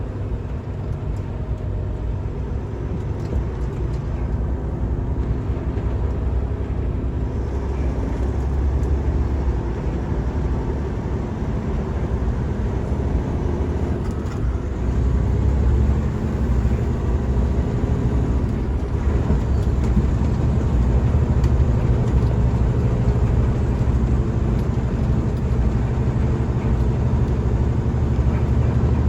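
Semi truck's Cummins diesel engine running steadily under heavy load, a low rumble that grows somewhat louder about halfway through.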